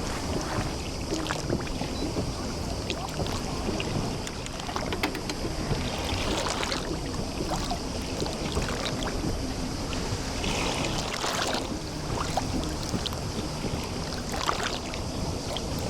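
Small sea waves lapping and splashing at the edge of a bay, with fine trickling clicks and a few louder washes, over a steady low rumble.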